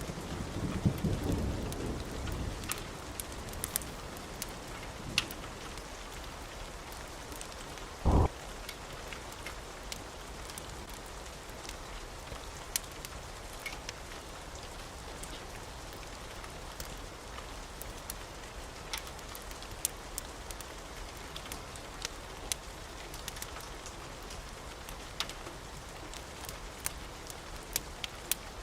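Wood fire in a fireplace crackling, with a steady hiss and scattered sharp pops. A low rumble fades over the first couple of seconds, and a single short, loud low thud comes about eight seconds in.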